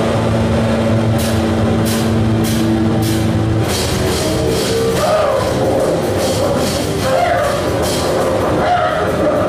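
Loud noise music: a held low drone with repeated harsh, crashing hits. About halfway through the drone drops away, leaving a wavering, distorted mid-pitched texture under the hits.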